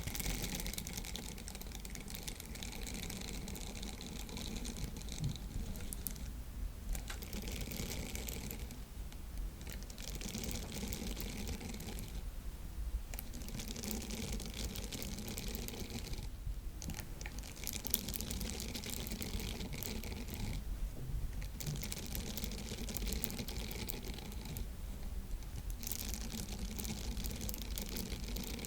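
Silicone sponge being handled close to the microphone, making a fine crackling, wet-sounding texture. It comes in stretches of a few seconds, broken by short pauses.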